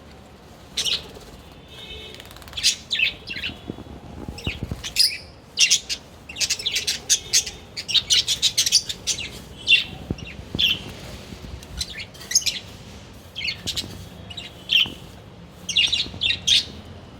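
A flock of small parrots chirping and squawking: many short, sharp, high calls that overlap, busiest in the middle.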